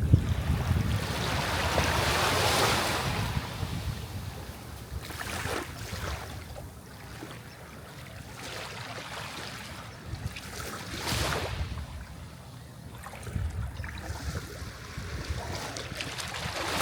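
Sea waves washing in, the surf swelling and falling back in several surges, the largest about two seconds in. A low wind rumble on the microphone runs underneath.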